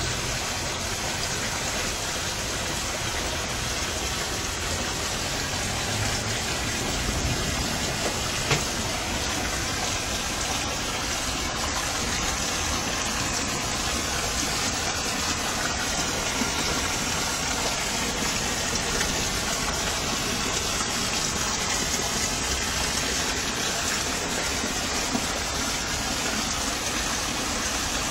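Steady rain falling, a continuous even hiss, with one brief tap about eight seconds in.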